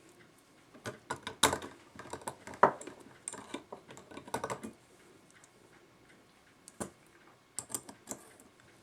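Quick, irregular clicks and light metallic clatter of brass clock-movement parts being handled as a mainspring post is worked back into its hole in the movement plate. A dense run of clicks comes in the first half, and a few more near the end.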